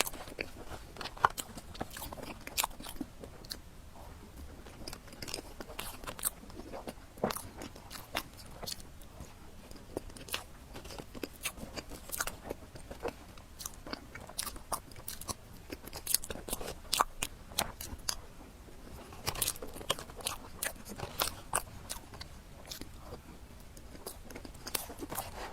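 A person chewing and biting food close to the microphone: irregular sharp crunches and wet mouth clicks several times a second, thickest and loudest about twenty seconds in.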